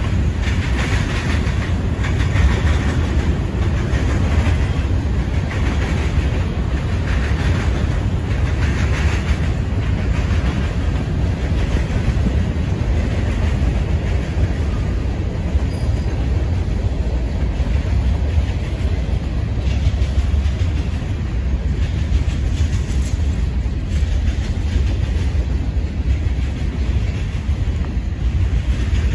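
A freight train's covered hoppers and boxcars rolling past in a steady, loud low rumble of steel wheels on rail, with recurring clacks as wheels pass over rail joints.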